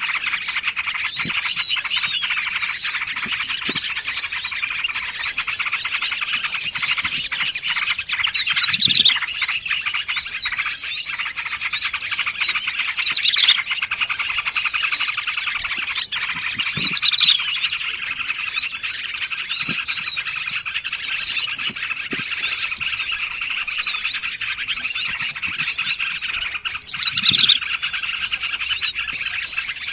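Bird-lure recording of several small songbirds calling at once: a dense, continuous chatter of chirps and twitters. A fast, even trill comes in from about 5 to 8 seconds in and again from about 21 to 23 seconds.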